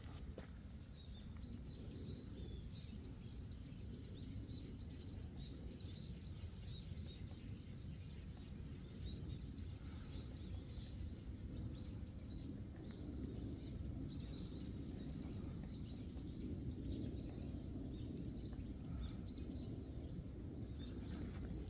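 Small birds chirping, many short high calls repeating throughout, over a steady low background rumble.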